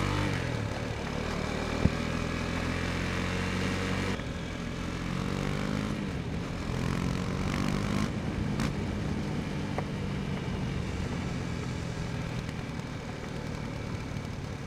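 KTM Duke 250's single-cylinder engine running while the motorcycle is under way, with wind and road noise. The engine note holds steady, steps down about four seconds in, then climbs again as the throttle is opened. A single sharp click comes about two seconds in.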